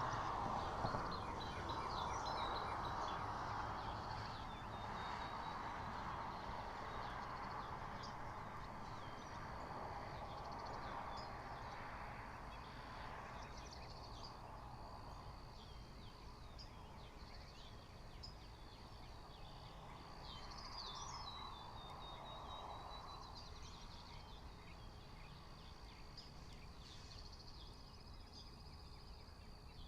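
Several small songbirds chirping and trilling, with a falling trill twice, over a broad rushing background noise that fades after the first dozen seconds and swells once more later.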